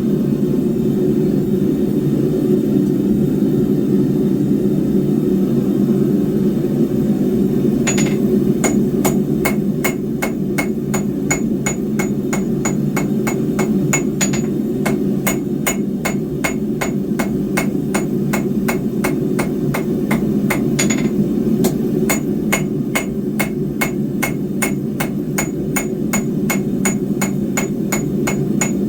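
Hammer blows on steel bar at the anvil, a steady run of ringing strikes about three a second that begins about a quarter of the way in. Under them is a steady low roar, the forge running.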